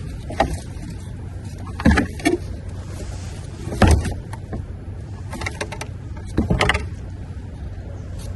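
Discarded items being handled and shifted, giving about six sharp knocks and clatters, the loudest about two and four seconds in, over a steady low hum.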